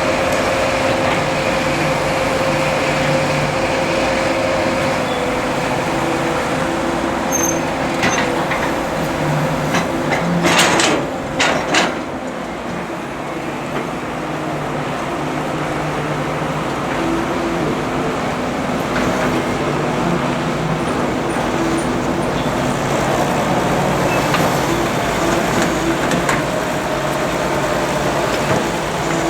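Excavator diesel engine running steadily, with several sharp knocks about ten to twelve seconds in.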